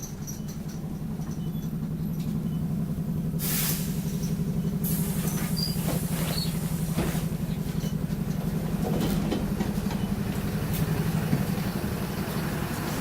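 The interior of an Optare Solo bus: its engine drones steadily. About three and a half seconds in there is a loud hiss of air lasting about a second, followed by a few short high squeaks.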